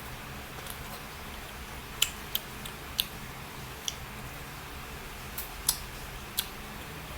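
Eating sounds at a meal of chicken and rice: a handful of short, sharp clicks and taps at irregular intervals, the loudest about two and three seconds in and again near the end.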